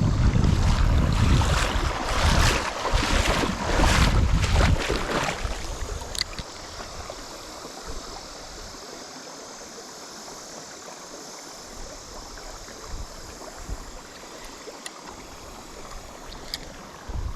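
Loud, rough buffeting noise heavy in the lows for about the first five seconds, then the steady rush of flowing river water with a few faint clicks.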